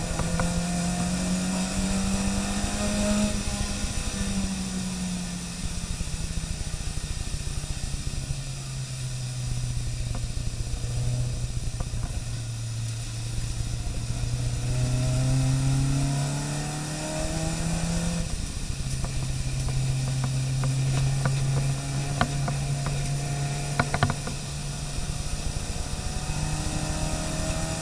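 A car engine running under load without a break, its note climbing slowly and dropping sharply about 4 seconds in and again about 18 seconds in, as with gear changes or lifting off the throttle, over a steady hiss, with a few sharp ticks near the end.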